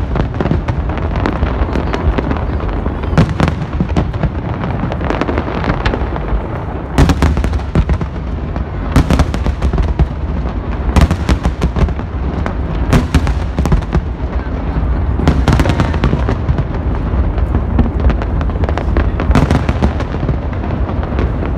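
Fireworks going off without a break: a dense mix of bangs and crackling under a low rumble, with sharper loud cracks every second or two.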